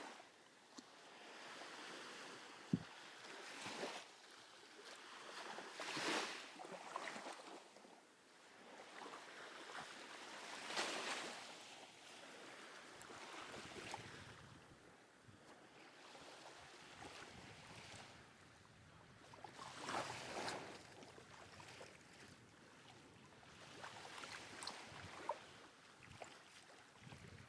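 Small waves breaking gently on the beach, a soft swell of surf every few seconds, with a light breeze. A single sharp click about three seconds in.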